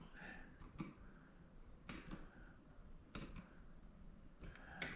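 Faint, scattered clicks and small knocks, about four or five, from fuel pump parts being handled and fitted by hand.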